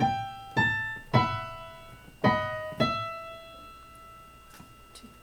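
Piano playing a short phrase in a high register: five single notes, the last held and fading away about four seconds in.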